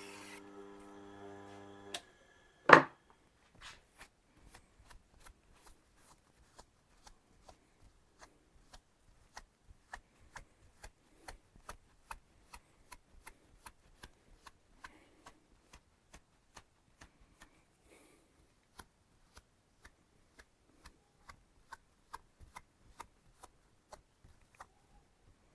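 An electric sharpening machine's motor hum cutting off about two seconds in, then one loud knock with a short ring, followed by a long run of light, even clicks about twice a second.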